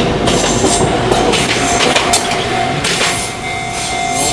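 Train running noise, wheels clattering over the rails, chopped and repeated into a rhythmic sound-collage. A steady pitched tone, like a train horn, comes in about two and a half seconds in.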